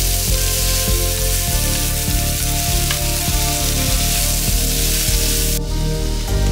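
Pineapple chunks, onion and dried chillies sizzling in oil in a nonstick frying pan as they are stirred with a wooden spatula, with light scraping ticks. The hiss cuts off suddenly near the end.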